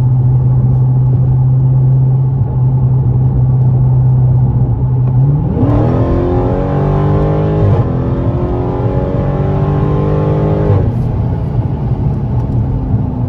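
Dodge Challenger Scat Pack's 392 HEMI V8 running at a steady drone, then opened up about five seconds in. The pitch climbs, breaks briefly near eight seconds as for a gear change, climbs again, and falls back to a cruise drone near eleven seconds.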